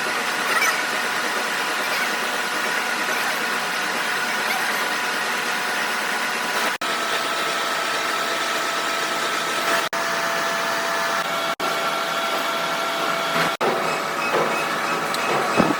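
Steady machine noise with a high, even whine, dropping out for a moment four times.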